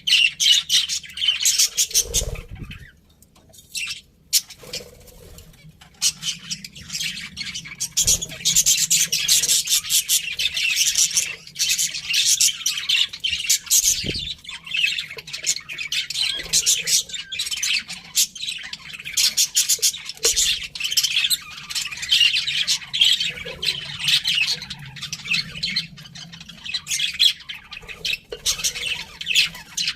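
Several budgerigars chattering and warbling together in rapid, overlapping chirps and squawks, with a short lull a few seconds in. A couple of soft low thuds stand out, one early on and one near the middle.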